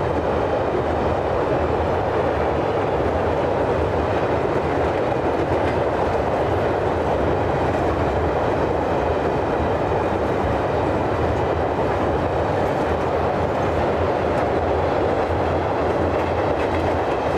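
Freight train of bogie oil tank wagons rolling steadily across a bridge: a continuous, even noise of wheels running on the rails.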